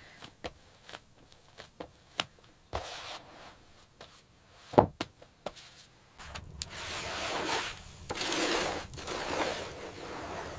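Scattered light knocks and one sharp thump, then several longer strokes of scraping or rubbing, as of something being handled and worked by hand.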